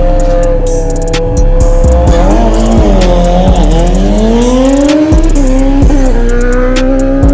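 Nissan 370Z's 3.7-litre V6 running hard through an aftermarket axle-back exhaust: the engine note drops in pitch about two seconds in, then climbs steadily as it pulls again. Music with a steady drum beat plays over it.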